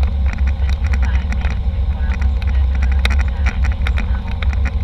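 Airliner cabin noise: a steady low rumble with many small sharp clicks and rattles scattered through it.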